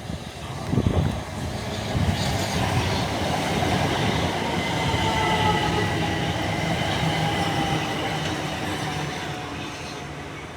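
Southeastern electric multiple-unit train running along the line through the station, building up and then fading away, with thin squealing tones from the wheels and traction gear that fall slightly in pitch. A short thump about a second in.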